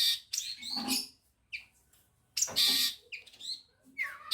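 Songbird calls: two loud harsh rasping bursts, one at the start and one about two and a half seconds in, with short sharp down-slurred chips and whistles between them.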